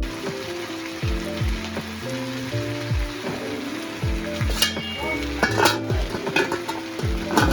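Food sizzling in hot oil in a pan, with a few sharp clinks of a utensil stirring it from about halfway in. Background music plays under it.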